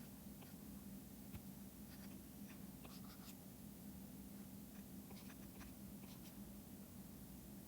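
Faint strokes and taps of a stylus on a drawing tablet, a scattered handful of light ticks, over a steady low hum.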